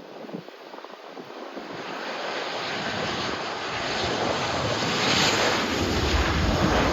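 A jet airliner's engine noise swelling steadily as the aircraft comes closer, with a deep rumble building in over the last couple of seconds.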